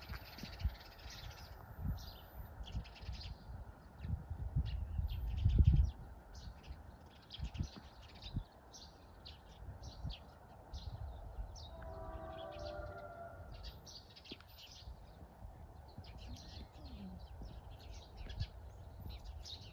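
Small birds chirping repeatedly, with low rumbling in the first six seconds and a brief pitched tone about twelve seconds in.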